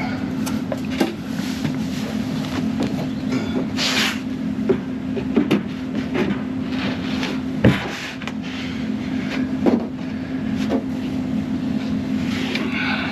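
Steady low machine hum with scattered knocks and taps of wood being glued and nailed into cabinet face frames; a sharper single knock about two-thirds of the way through.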